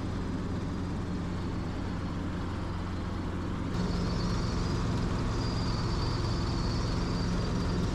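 Helicopter in flight: steady drone of engine and rotor with a low hum, heard from the cabin. A little after halfway it gets slightly louder and a faint high whine joins in.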